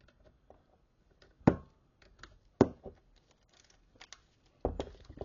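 Small steel clutch parts clicking and knocking as they are handled and fitted: light ticks with three sharper knocks, the first ringing briefly.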